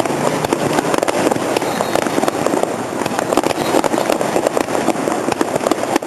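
Fireworks display going off: a dense, continuous crackle of many rapid small bursts over a steady rumble.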